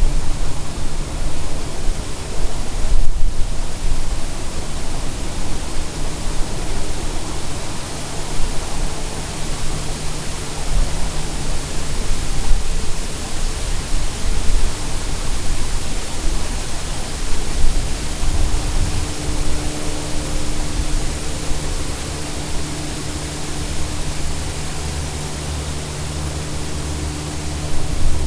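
Steady road and wind noise of a car driving, picked up by a dash cam inside the car: an even hiss with a low hum underneath.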